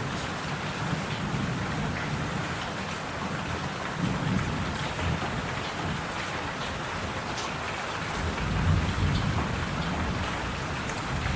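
Steady rain hiss with scattered faint drop ticks, under low rumbling swells that rise and fade every few seconds.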